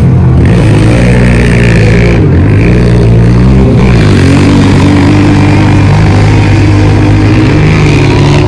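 Large 4x4's engine revving, its pitch dipping and rising in the first few seconds, then running at a steady pitch.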